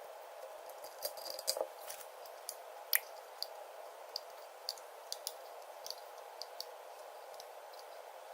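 Scattered small clicks and taps over a steady hiss, the loudest about three seconds in.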